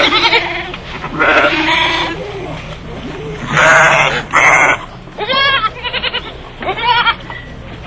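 A series of bleats from goats or sheep: about seven short calls in quick succession, some with a wavering pitch.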